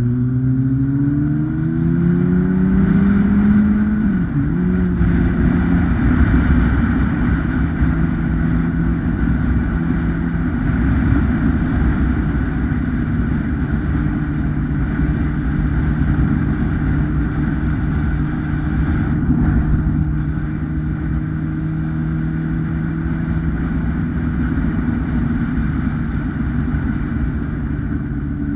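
2008 Kawasaki ZX-10R's 998 cc inline-four running under acceleration, its pitch rising for about the first four seconds. A quick dip at a gear change follows, then a steady engine note at cruising speed for the rest.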